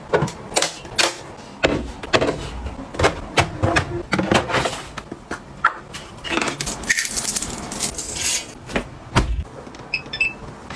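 Containers and products being handled and set down during organising: a quick, irregular series of clicks, taps and knocks, with a brief hiss about two-thirds of the way through.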